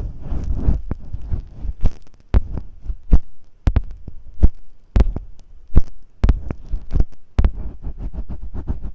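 Masking tape being rubbed and tapped close against the microphone in ear-cleaning-style ASMR: irregular dull thumps and sharp crackles, with scratchy rustling at the start and again near the end.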